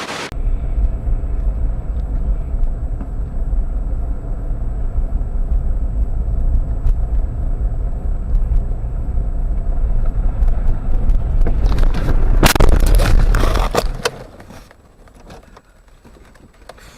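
Dashcam audio of a car driving: a steady low rumble of engine and road noise. About twelve and a half seconds in comes a loud, sudden burst of noise lasting about a second, and shortly after that the rumble drops away sharply.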